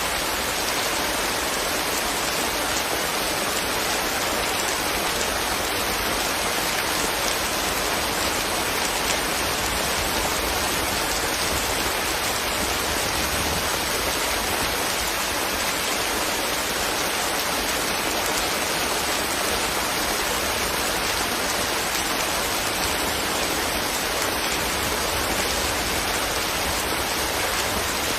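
Steady rain falling, an even hiss with no breaks or single loud events.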